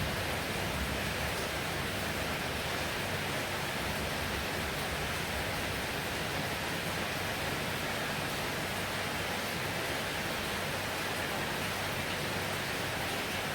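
Heavy rain falling in a steady, even hiss, with no thunder or separate drops standing out.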